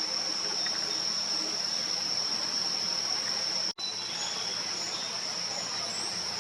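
A steady, unbroken high-pitched insect trill, typical of crickets, over an outdoor background hiss. The sound drops out for an instant nearly four seconds in.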